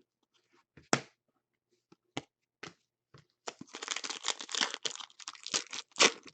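A few sharp taps, then about three and a half seconds of dense crackling as a trading card pack wrapper is torn open and crinkled.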